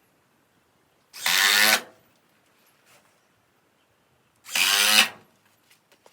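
Cordless drill running in two short bursts, about a second in and again near five seconds, each lasting well under a second.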